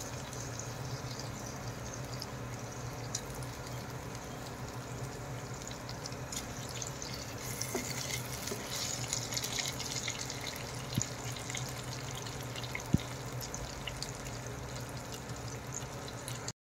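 Chicken pieces sizzling in hot oil in a nonstick frying pan, with scattered small crackles as they are turned with a spatula. The sizzle grows louder about eight seconds in, while the pieces are being stirred.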